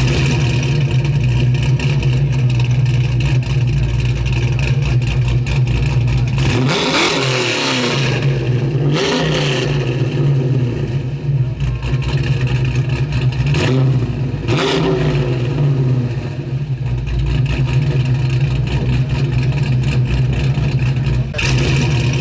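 1987 Buick Grand National's turbocharged 3.8-litre V6 idling steadily, blipped up to revs and back down about four times.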